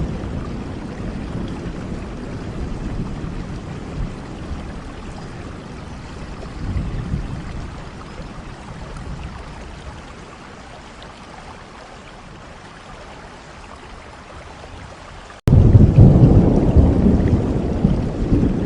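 Rain with low rolling thunder rumbling and slowly dying away. About fifteen seconds in, the sound cuts out for an instant and a much louder thunder rumble begins abruptly.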